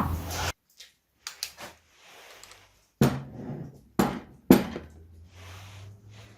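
A few short knocks and clatters, the three loudest about three, four and four and a half seconds in, then a faint low hum.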